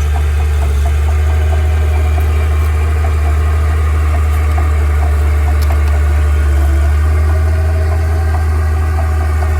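A vehicle engine idling steadily with a deep, even hum and faint ticking.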